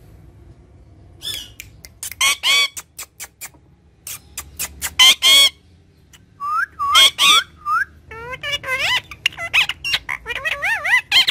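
Green ringneck parakeet calling: a run of sharp squawks, then a few short rising whistled notes, then fast warbling chatter with pitch swoops to the end.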